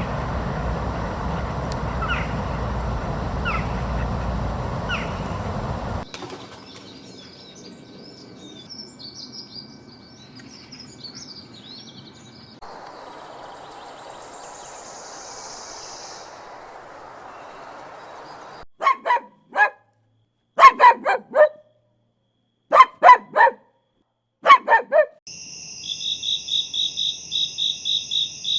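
A run of different animal calls: a few short falling chirps over steady noise, then high twittering chatter, then loud pitched calls in quick groups of two to four, and near the end a fast, steady pulsing trill.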